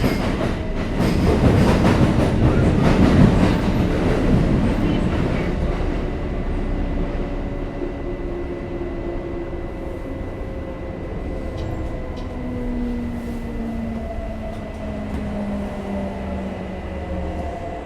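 Kintetsu 5800 series electric train heard from inside the car: wheel and track rumble with rail-joint clicks. The rumble eases after about five seconds, and from about twelve seconds the motor whine falls slowly in pitch as the train slows.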